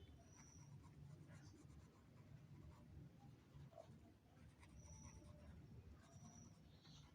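Three faint, short, high chirps from a bird, spaced over several seconds, over a low scratchy rustling.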